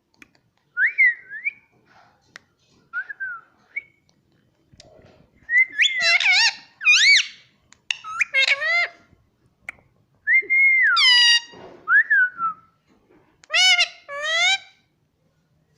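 Indian ringneck parrot whistling and calling in a string of short notes that glide up and down in pitch, soft at first and fuller and louder from about halfway through.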